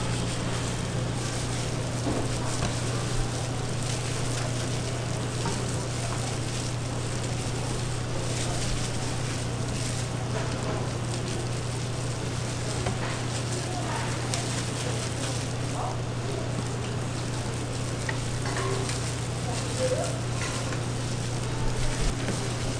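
Food frying with a steady sizzle, over a constant low hum, with faint chatter and a few small clicks.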